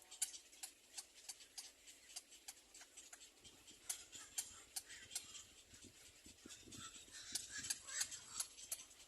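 Faint, irregular sharp clicks and ticks, several a second.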